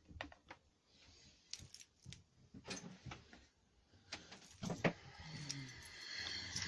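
Scattered clicks and metallic clinks of small hand tools being handled, with a sharper knock just under five seconds in.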